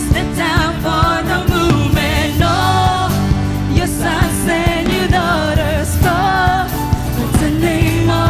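Live praise-and-worship music: a lead singer over a band, with steady bass and a regular drum beat.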